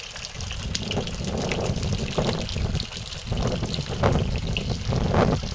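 Water running from a garden hose, trickling and splashing without a break.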